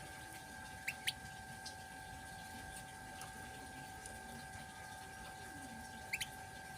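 Male canary giving short sharp chirps, a pair about a second in and another pair near the end, over steady running water and a faint steady hum.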